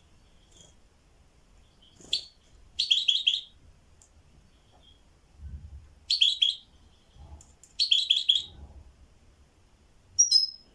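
A songbird chirping in short phrases: quick runs of three or four bright notes, repeated a few times with pauses between, then one sharper, higher note near the end.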